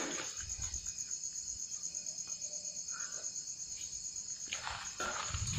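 Crickets chirping in a continuous high, pulsing trill, with a brief low rustle near the end.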